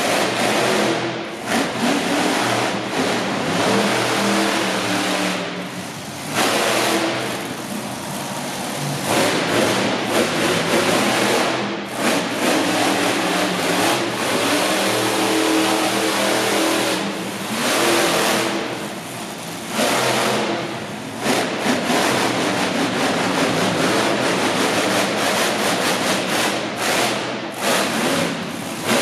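Monster truck engine revving hard, the throttle opened and closed over and over so the pitch climbs and drops, with brief dips in between.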